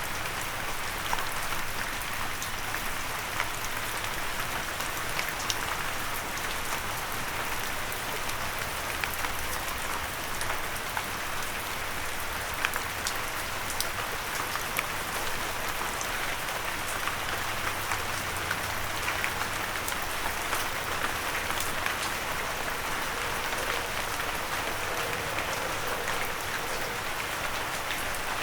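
Steady rain falling, with many individual drops ticking sharply against a windowsill.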